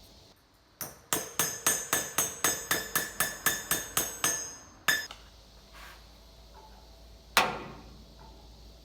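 Hammer striking metal while a part is shaped by hand: a quick run of about a dozen ringing blows, about four a second, then one more blow, and a single louder blow near the end.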